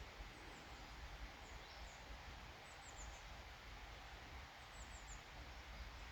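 Faint woodland ambience: a steady hiss of distant running water, with small birds giving short, very high chirps in little runs of two or three.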